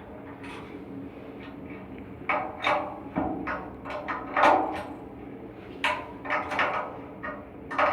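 Irregular sharp knocks and clanks, some ringing briefly, over a steady low machinery hum, consistent with hand tools and metal parts being handled during V-belt work on an AHU blower.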